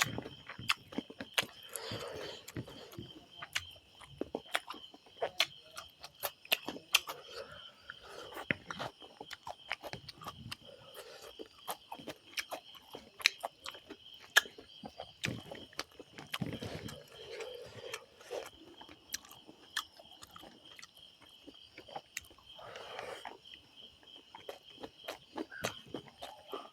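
Close-up chewing and mouth sounds of a person eating rice with chicken curry: many irregular wet clicks with a few soft murmurs. A steady high-pitched hum runs underneath.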